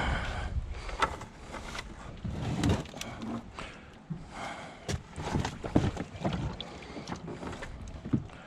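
Irregular knocks, thumps and short scrapes of hands-on work, with no steady machine running.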